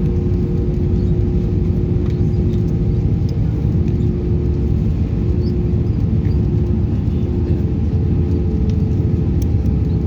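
Airbus A319 heard from inside the cabin: a steady low rumble of the engines and airframe, with a steady hum that fades about halfway through.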